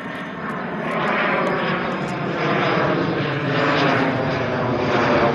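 Jet noise of a BAE Hawk 127 trainer flying past, a dense steady rush that grows louder about a second in and stays strong.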